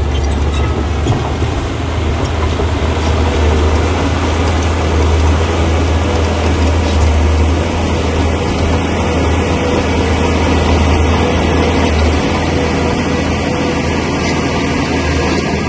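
Crawler bulldozer's diesel engine running steadily with a deep hum, mixed with the metallic clatter of its steel tracks.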